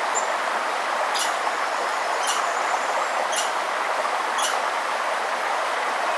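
A river rushing steadily, with a bird repeating a short, sharp, high call about once a second and a faint thin high whistle in between.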